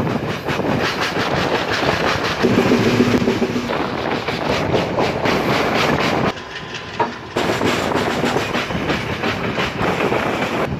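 Express train running at speed, its wheels clattering rapidly over the rails. The sound drops away briefly about six seconds in, then returns.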